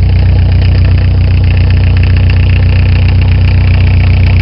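1987 Ford Escort's Mazda-built four-cylinder diesel engine running steadily just after a cold start, with a loud, even diesel clatter. It sounds like knocking, but it is the normal combustion knock of a diesel, not a fault.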